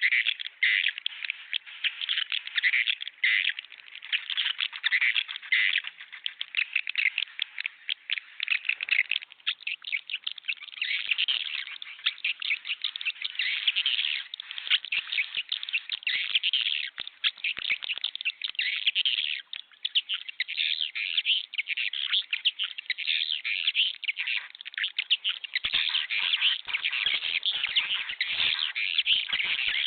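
Swiftlet calls played as a lure for a swiftlet nest house: a dense, continuous chorus of rapid, high twittering chirps.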